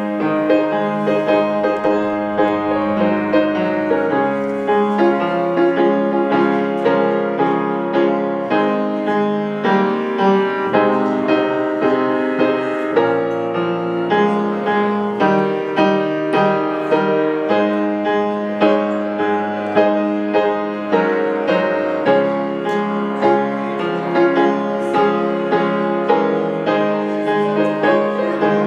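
Piano playing a flowing, steady stream of notes with sustained chords.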